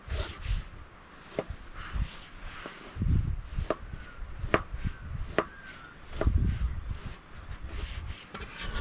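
A series of irregular sharp knocks or snaps, about half a dozen spread over several seconds, with short low rumbles and faint bird chirps.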